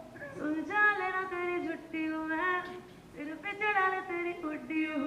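A woman singing a short phrase unaccompanied, holding long, steady notes that slide from one pitch to the next.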